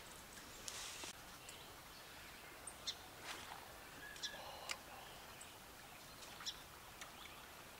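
Faint, scattered bird chirps and short calls over quiet riverside ambience.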